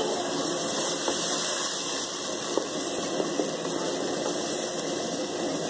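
Onion-tomato masala sizzling in a pot with freshly added spices while being fried (bhuna), stirred with a wooden spatula that knocks lightly against the pot a few times.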